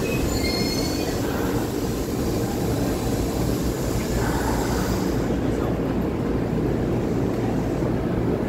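Electric commuter train creeping in at walking pace to couple with another train: a steady low rumble of its running gear and motors, with a faint squeal of wheels or brakes in the first second.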